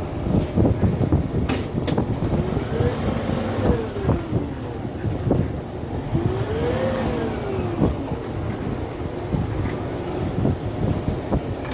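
Kubota M6-141 tractor's diesel engine working under load, rising and falling in pitch twice, amid many short knocks and cracks.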